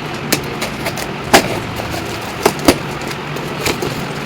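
A parcel being opened by hand: scattered sharp clicks and crackles of packaging, the loudest about a second in and two more close together past the middle, over a steady low hum.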